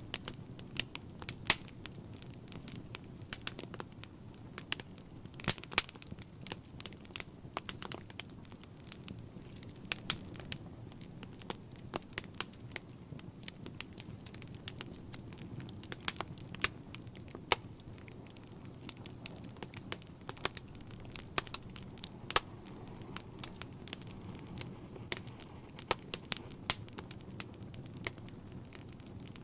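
Wood fire burning in a fireplace, crackling with frequent, irregular sharp pops and snaps over a low, steady rumble.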